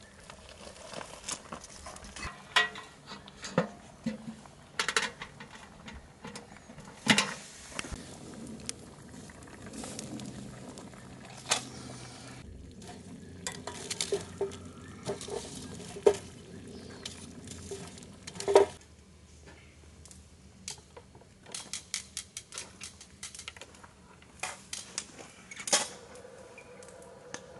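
Metal cooking utensils and cookware clinking, clanking and scraping at an irregular pace, with sharp knocks scattered throughout.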